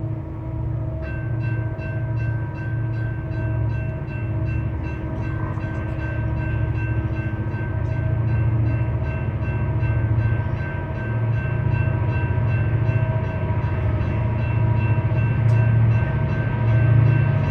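A slow-moving freight train's diesel locomotive rumbles steadily. From about a second in, a rapid, evenly paced ringing starts, in the manner of a grade-crossing bell, and carries on over the rumble.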